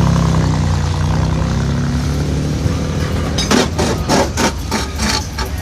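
A car engine running at a steady low idle. From about three and a half seconds in, a quick run of short, sharp noises plays over it.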